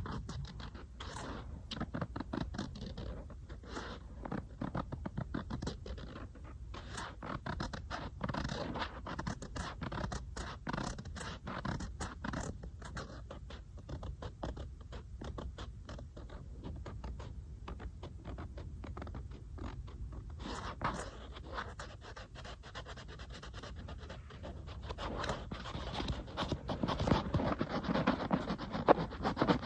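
Fingers tapping and scratching on an iPad: quick runs of small, sharp taps, turning into denser scratching near the end.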